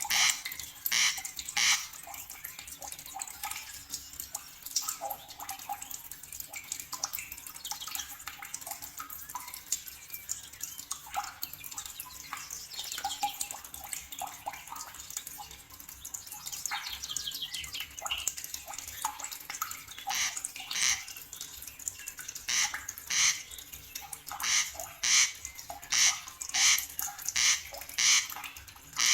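Forest birds calling: quieter chirps and a few falling trills, with a loud, sharp call repeated about twice a second at the start and again through the last third.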